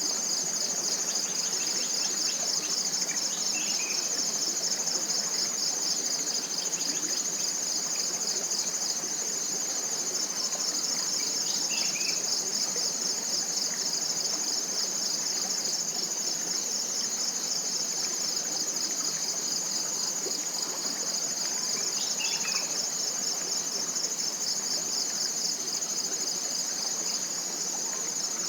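Dense chorus of forest insects: a continuous high, finely pulsing trill. A bird gives a short falling call three times, roughly ten seconds apart.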